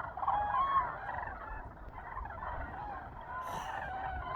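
A flock of common cranes calling as they take off, many short trumpeting calls overlapping one another over a low steady rumble.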